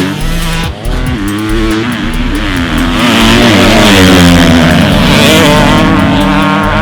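Motocross bike engines revving on a race track, the pitch climbing and dropping through gear changes. The sound is loudest in the middle few seconds as the bikes come by.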